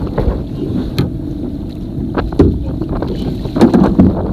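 Wind buffeting the microphone on a small boat, a steady low rumble, with several sharp knocks and thumps, the loudest about two and a half and four seconds in.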